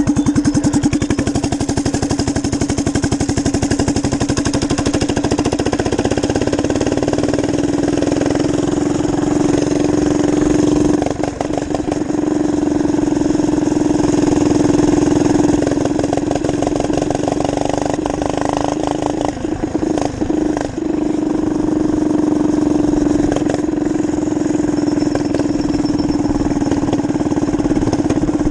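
Minibike engine running steadily under way, its pitch rising slightly and holding, with brief drops in engine note about a third of the way in and again about two-thirds in.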